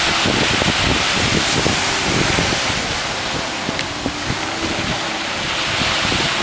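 Wind buffeting the microphone with an irregular low rumble, over a steady rushing hiss of sea water.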